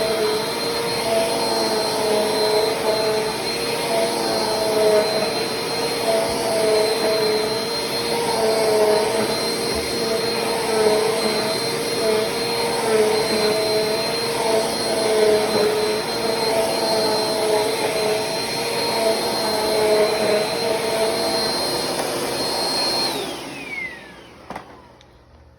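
Bissell CleanView Compact Turbo 3437F upright vacuum running steadily with a high motor whine as it vacuums up dryer-vent lint. About 23 seconds in it is switched off, and the whine falls away as the motor spins down.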